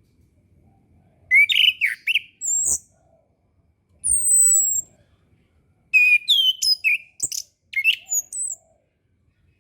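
Orange-headed thrush singing: short, varied phrases of sweeping whistled notes separated by pauses, including a high, slowly falling whistle about four seconds in.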